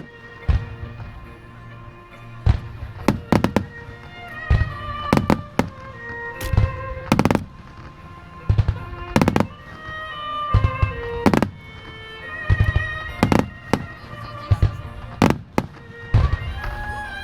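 Fireworks bursting in quick succession, sharp bangs coming singly or in pairs every half second to a second, over music with a held, sustained melody.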